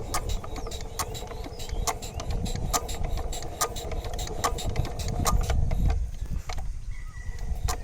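Sewing machine running: a steady hum with regular clicks from the stitching, about two to three a second. The hum stops about six seconds in, leaving a few scattered clicks.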